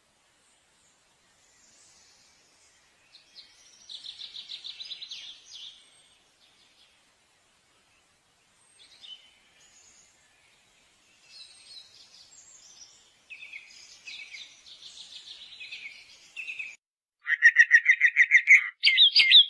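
Birds calling in separate bursts of rapid trilled notes, with silent gaps between; the loudest, a fast trill, starts near the end.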